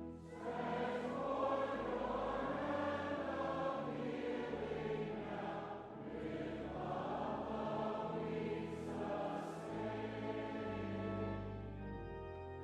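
Congregation singing a hymn together with organ accompaniment. Near the end the voices drop away and the organ carries on alone.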